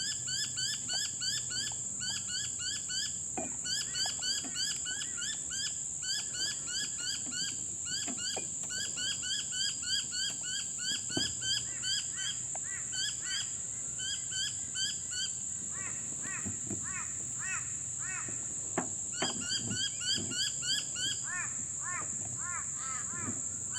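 Birds chirping in quick, steady repeats, several chirps a second with short pauses, over a steady high-pitched whine.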